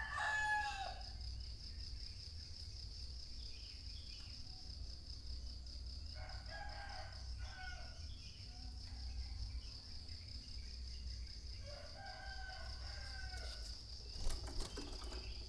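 A rooster crowing three times, about six seconds apart, over a steady high-pitched insect trill.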